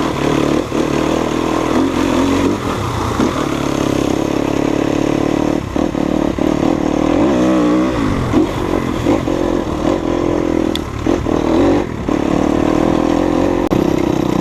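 Enduro dirt bike engine running steadily, its revs rising and falling with the throttle about halfway through, with a few knocks and rattles from the bike.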